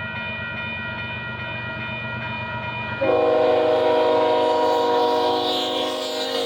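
Union Pacific locomotive horn sounding a long held chord over the low rumble of the grain train. About three seconds in it jumps to a much louder, lower chord that holds to the end.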